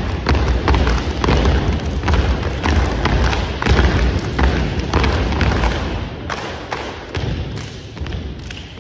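Unarmed exhibition drill team stomping, clapping and slapping in unison, a rapid run of loud thumps and sharp claps.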